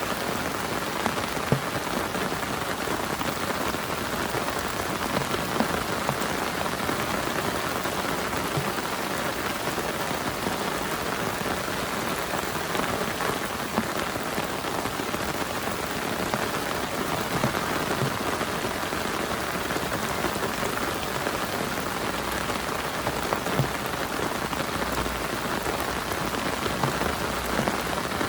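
Steady heavy rain falling on a camping tarp, with scattered louder single drop hits. A faint low rumble comes in near the end.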